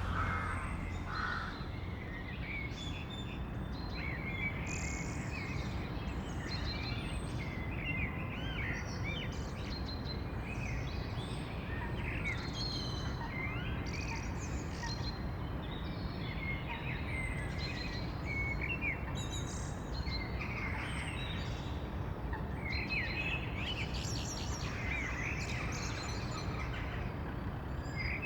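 Small songbirds chirping and singing in many short, quick notes over a steady low rumble of background noise.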